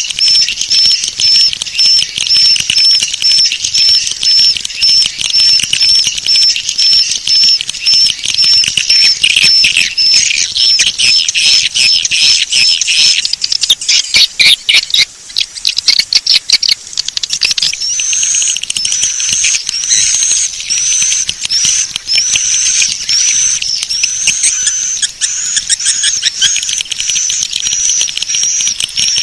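Swiftlet lure-call recording of high, twittering chirps. It opens as a steady run of short chirps, about two or three a second. Around the middle comes a few seconds of rapid clicking trills, then longer rising chirps at about one a second.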